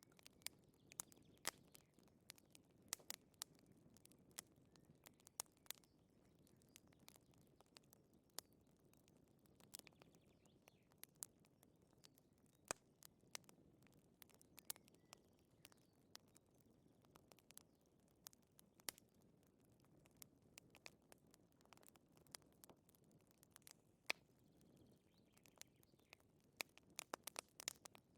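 Faint, irregular crackling and popping of a wood fire in a fireplace over a soft low hiss, with a quick flurry of pops near the end.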